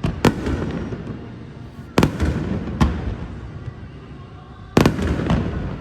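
Aerial fireworks bursting: five sharp bangs at uneven gaps, two close together near the start and end, with low rumbling and echo between them.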